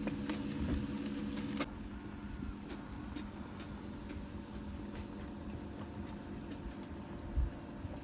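A steady low hum that cuts off about a second and a half in, then faint outdoor insect chirping, with one low thump near the end.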